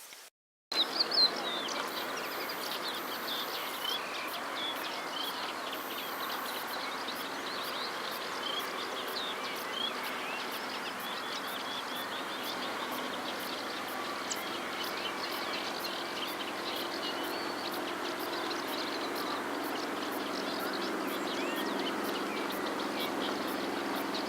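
Dense chorus of many birds calling at once, short chirps overlapping without a break. It starts abruptly after a brief silence.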